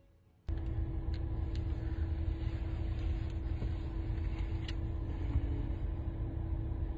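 Steady low rumble of a car running, heard from inside the cabin, starting suddenly about half a second in, with a faint steady hum and a few light clicks over it.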